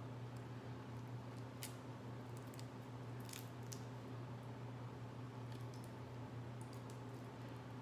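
Faint, scattered clicks and snaps of seafood shells being peeled and eaten by hand, about half a dozen over several seconds, over a steady low electrical hum.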